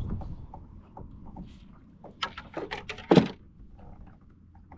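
A string of irregular clicks and knocks against a kayak, the loudest a single thump about three seconds in, as a small snook is landed and handled aboard.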